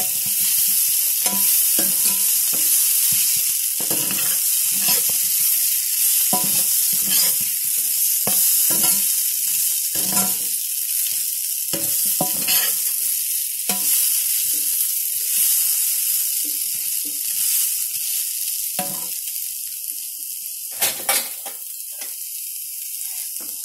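Spiced potatoes sizzling in hot oil in a kadai while a spatula stirs and scrapes them against the pan, about one scrape a second. The stirring stops about three-quarters of the way in, with a couple of sharp clicks near the end, while the sizzling goes on a little quieter.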